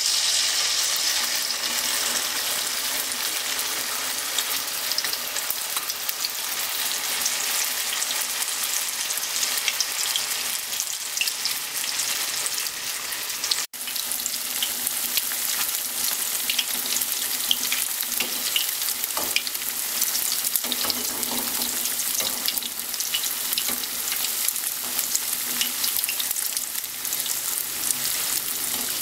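Battered pumpkin sticks and pumpkin seeds deep-frying in hot oil, a steady sizzling hiss with fine crackles. It cuts out for an instant about halfway through.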